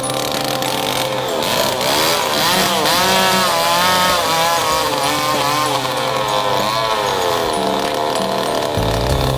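Small 49cc high-performance engine running and being revved, its buzzing pitch rising and falling several times in quick succession.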